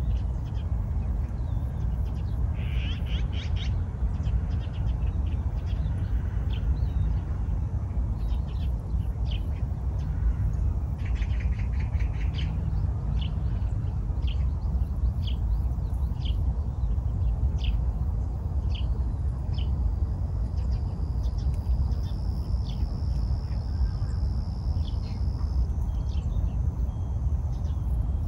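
Birds chirping in short, scattered calls over a steady low rumble. A thin, high, steady note holds for several seconds in the second half.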